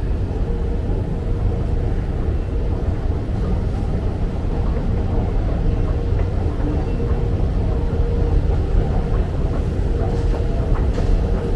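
Steady low rumble of a London Underground train and station, with faint rattling clicks building near the end.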